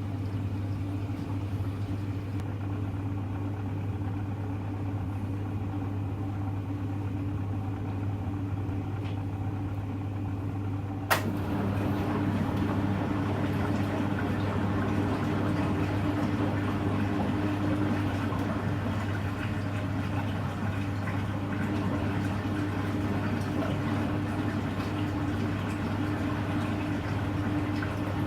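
Hoover Electra front-loading washing machine running with a steady hum. About eleven seconds in there is a sharp click, and the machine's running sound steps up, louder and noisier.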